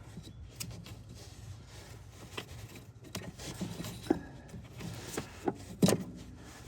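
Handling noises of a grommet being pulled out of a hole: light rubbing with scattered small clicks and taps, a few sharper ones near the end.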